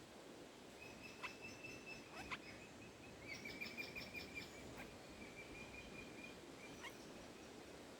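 Faint bird calls: a thin high note held for a couple of seconds, then a quick run of about six short notes and softer notes after, with a few sharp clicks in between.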